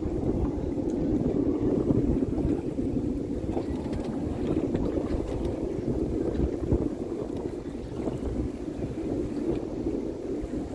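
Wind buffeting the microphone over a steady low rumble on an open boat.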